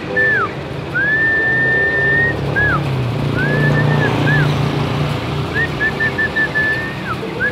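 Caged songbird whistling clear notes at a single pitch, some short and repeated in quick runs and one held for about a second, each sliding up at its start and down at its end, over a steady low traffic rumble.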